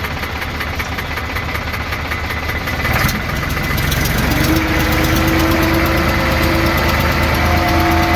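Tractor's diesel engine running, louder from about three seconds in, with a steady whine joining it a second later.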